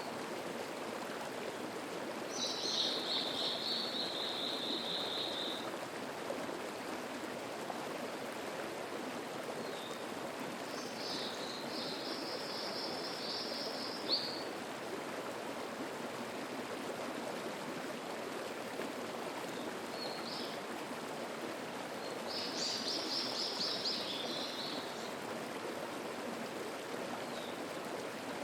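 A mountain stream flowing steadily. Over it a songbird sings three high trilling phrases of about three seconds each, spaced roughly ten seconds apart.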